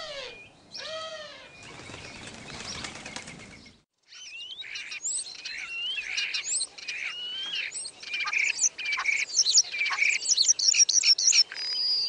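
Wood pigeon wings flapping for a couple of seconds. After a brief silence, a starling sings a busy run of whistles, chirps and clicks.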